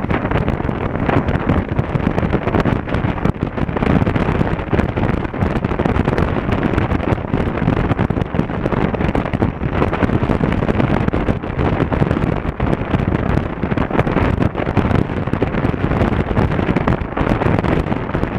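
Wind buffeting the action camera's microphone on a moving motorcycle, a steady rushing noise that covers the riding noise of the Honda Africa Twin CRF1000L underneath.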